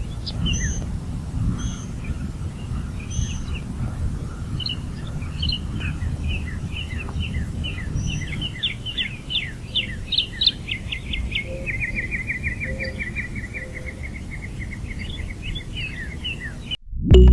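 Wild birds chirping outdoors over a steady low background rumble, with a fast trill of quickly repeated notes in the second half. The sound cuts off abruptly near the end.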